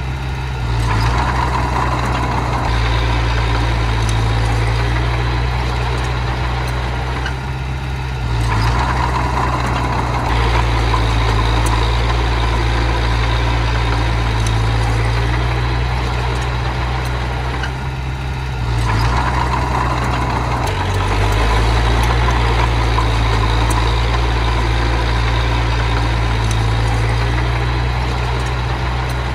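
Miniature bulldozer's diesel engine running, swelling louder about every nine to ten seconds and easing off in between, in repeated work cycles.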